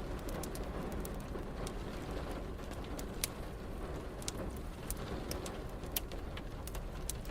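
Fireplace crackling, with irregular sharp pops and snaps, over a steady hiss of rain and a low, even rumble.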